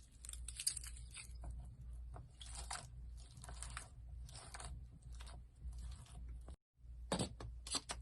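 Slime being squeezed and pressed by hand, giving irregular bursts of crackles and pops. The sound cuts out briefly about two-thirds of the way through, then resumes.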